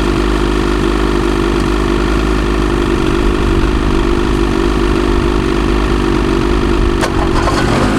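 Ski-Doo 850 E-TEC two-stroke snowmobile engine running at a steady fast idle after a cold start in deep cold. A sharp click comes about seven seconds in, and the engine sound changes just before the end as a second sled starts.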